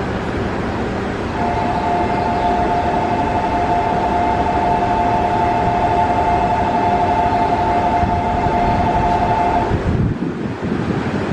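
Shinano Railway 115-series electric train at the platform as it departs, with a steady two-note tone sounding for about eight seconds over the train's running noise, then low rumbling near the end.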